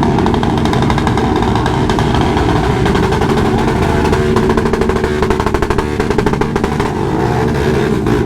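Motorcycle engines running and revving, with a rapid firing pulse most noticeable around the middle.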